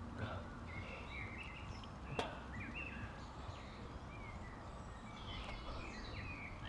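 Garden birds chirping and twittering in short, high calls over a steady low background rumble, with a single sharp click about two seconds in.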